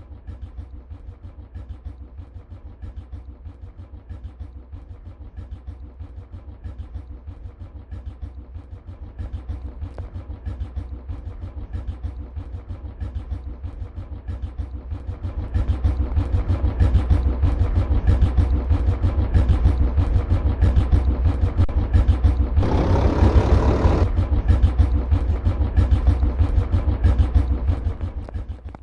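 Modified tractor's diesel engine running with rapid firing pulses and a heavy bass, growing louder in two steps, with a brief louder rush of noise near the end.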